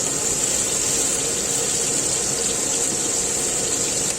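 Floured chicken pieces frying in hot oil: a steady sizzle with faint crackles.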